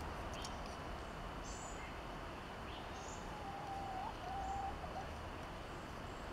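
Birds chirping faintly in the background: a few short, high chirps scattered through, and a lower wavering whistled note about halfway through, over a steady low outdoor hum.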